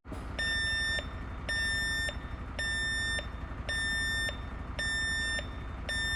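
An electronic alarm beeping: six even beeps of about half a second each, roughly one a second, over a low steady hum.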